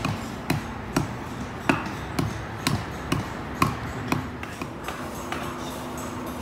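A series of about ten sharp knocks, roughly two a second, each with a light ring; they stop a little over four seconds in, over a steady low hum.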